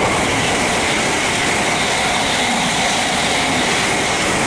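Thameslink Class 700 electric multiple unit running through the station: a steady, loud rush of wheel and body noise with a steady high whine.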